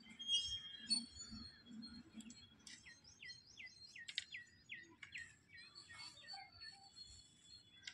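Small birds calling: a quick run of short falling chirps, about three a second, over other scattered high bird notes. A couple of soft low thumps come in the first second.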